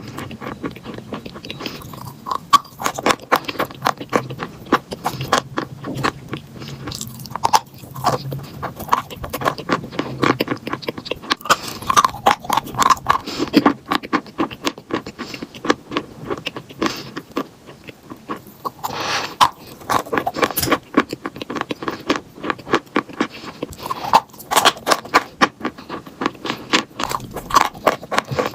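Close-up crunching and chewing of chalk: a dense, irregular run of crisp crackles and snaps as pieces are bitten and ground between the teeth.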